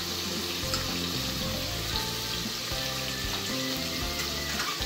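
Sliced leeks sautéing in hot olive oil in a pressure cooker pot, a steady frying sizzle. Soft background music with changing notes plays underneath.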